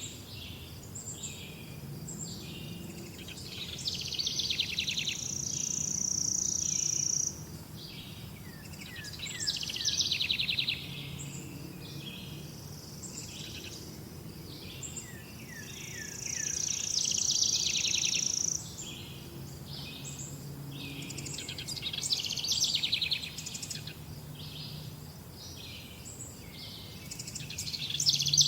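Songbirds singing and chirping, with a louder burst of song every five or six seconds over quieter calls. Twice a high, steady buzzing trill lasts about two seconds.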